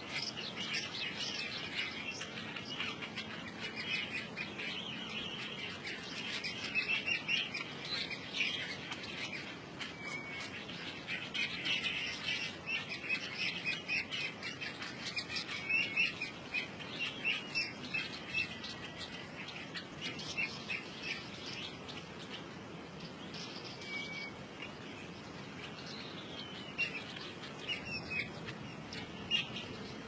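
Small songbirds chirping and chattering in quick, high-pitched runs, busiest in the first half, with a few sharper single calls near the end.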